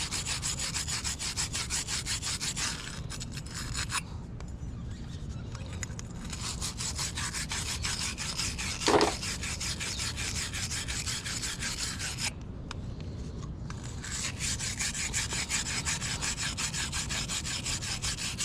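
Wire fitting brush scrubbing the inside of a shower valve's solder port in rapid back-and-forth strokes, scuffing the metal clean so solder will adhere. The strokes ease off twice, and there is a brief squeak near the middle.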